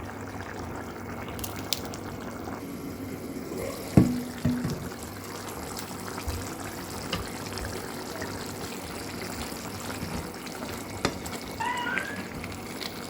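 Steady watery noise of liquid, with one loud knock about four seconds in and a few light clicks near the end.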